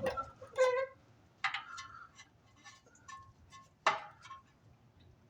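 Hand grease gun being worked on the truck's tie rod grease fittings: a brief squeak, then a few sharp metallic clicks and clinks with short ringing, the loudest about four seconds in.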